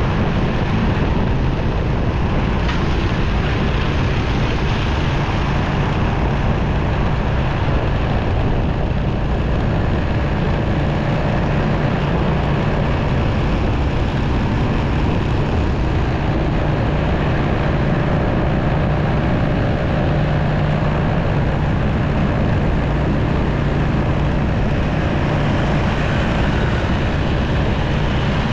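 Motorcycle running steadily while riding through city traffic, its engine drone mixed with road and traffic noise, heard from the rider's own camera.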